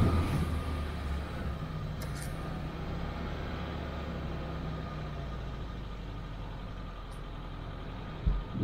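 Off-road 4x4's engine running steadily at low speed while driving over a dirt track, with one short low thud near the end.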